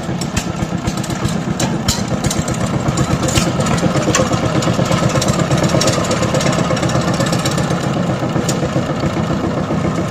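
Power tiller engine running steadily with a rapid, even beat, with a few sharp clicks here and there.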